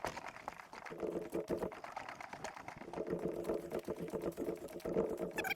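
Footsteps and carried gear clattering on a forest portage trail: many quick clicks and knocks, joined about a second in by a steady low hum.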